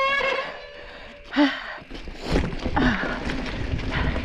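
A sharp gasp from the rider about a second and a half in, then the rumble and rattle of a Specialized Stumpjumper mountain bike rolling over rough, rocky trail.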